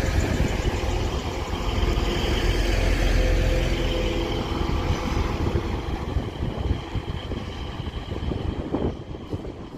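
A pair of coupled Class 185 diesel multiple units pulling out under power, their underfloor diesel engines and wheels on the rails running steadily, then fading gradually over the last few seconds as the train draws away.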